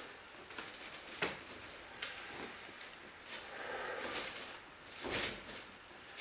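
Clothes being handled: fabric rustling and swishing in irregular bursts as shirts are moved and folded, with a couple of sharp clicks near the start.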